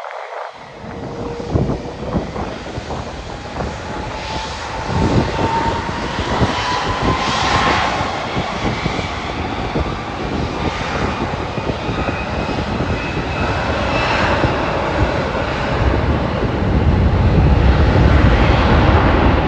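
Jet airliner engines growing steadily louder, with a whine that rises in pitch over the first several seconds and a deep rumble that is loudest near the end.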